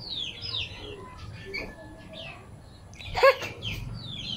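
Birds chirping over and over in quick, high, falling notes. A child gives one brief high-pitched squeal about three seconds in.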